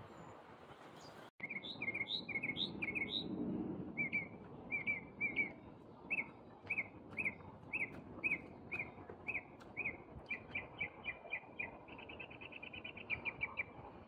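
A songbird singing a long run of short, sharp, repeated chirps. The chirps come faster and faster and run into a rapid trill near the end.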